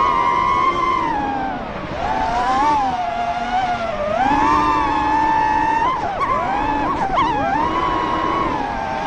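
A small motor whining at high speed, its pitch rising and falling again and again, with a quick dip and wavering about six to seven seconds in. Wind noise rumbles underneath.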